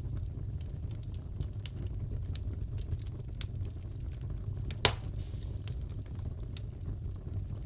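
Crackling fireplace: a steady low rumble of burning with scattered small crackles and one sharper pop a little past the middle.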